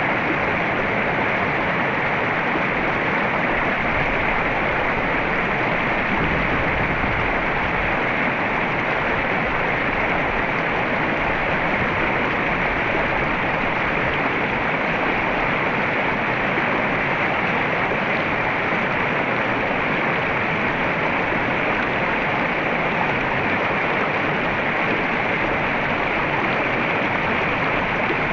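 River water flowing steadily in an even, unbroken rush.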